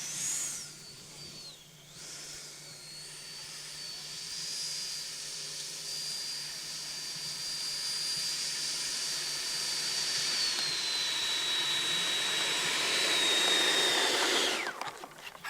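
Electric ducted fan of an FMS F-18 70mm EDF model jet whining high over a rush of air. It briefly rises and dips at the start, then grows steadily louder, eases slightly lower in pitch past the middle, and cuts off suddenly near the end as the throttle is closed.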